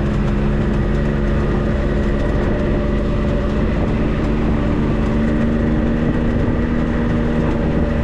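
Off-road 4x4's engine running at a steady, even speed, with a low rumble and no change in pitch.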